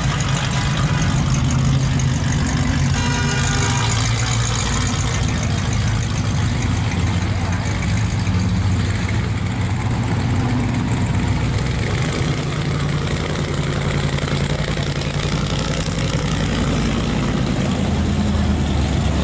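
Engine running steadily with a low, even drone, with a short higher-pitched tone about three seconds in.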